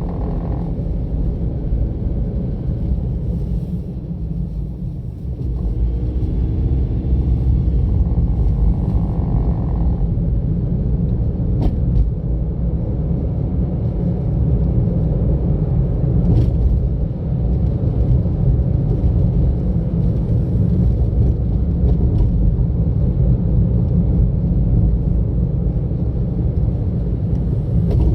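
Steady low rumble of a car driving: road and engine noise picked up by an onboard camera, easing briefly about five seconds in.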